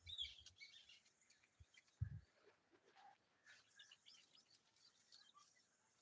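Faint, scattered high bird chirps and twitters, with a single low thump about two seconds in.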